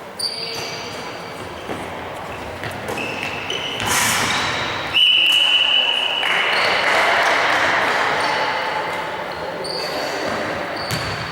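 Indoor tchoukball play in a sports hall: sneakers squeak on the floor and the ball bounces and strikes. About five seconds in, a whistle sounds one sharp blast lasting over a second, followed by a stretch of noise with players' voices.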